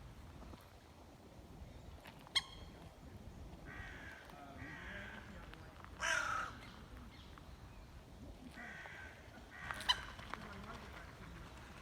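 Birds giving harsh, cawing calls several times, the loudest one about six seconds in, with two sharp clicks, one about two and a half seconds in and one near ten seconds.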